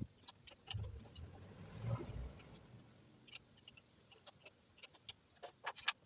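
Hand tools and motorcycle parts being handled during disassembly: scattered short clicks and knocks, with low thuds about one and two seconds in and a quick run of clicks near the end.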